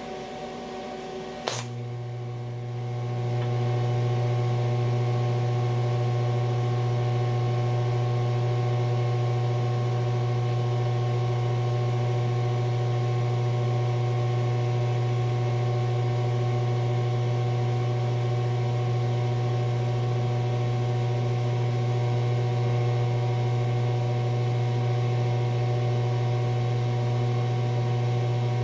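TIG welding arc on aluminium, run on direct current electrode positive: a sharp crack as the arc strikes about a second and a half in, then a steady hum with several overtones as the welder runs under load.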